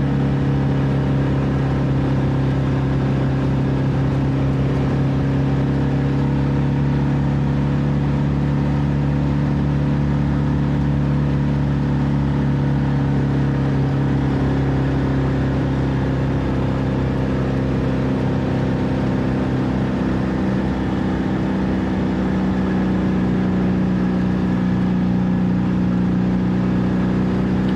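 An old car's engine heard from inside the cabin, pulling steadily under load in third gear up a steep hill. The note holds even and creeps slightly higher over the last several seconds, with road noise underneath.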